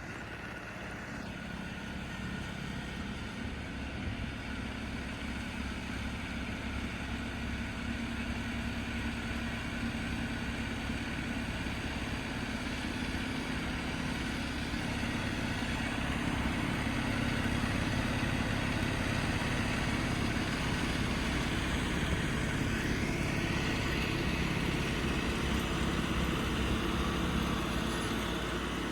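A vehicle engine running steadily while a snowblower is driven through deep snow. The sound grows slowly louder, with a faint rising whine a little past the middle.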